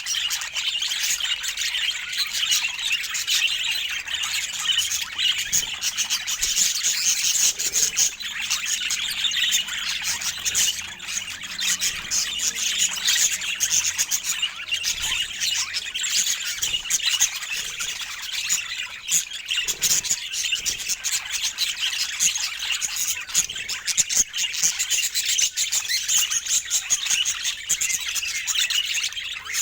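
Budgerigars chirping and chattering in a dense, unbroken stream of high, rapid chirps.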